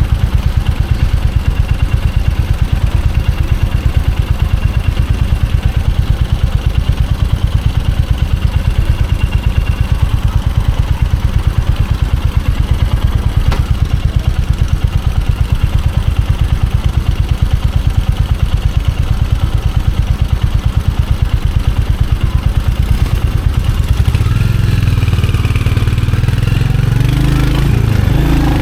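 Royal Enfield Hunter 350's single-cylinder engine idling with an even, rapid thump from the exhaust, then picking up revs and getting louder about 24 seconds in.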